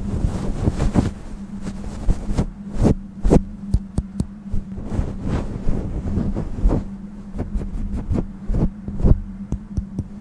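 Irregular crackles, taps and rustles from close handling, with low buffeting on the microphone, over a steady low hum.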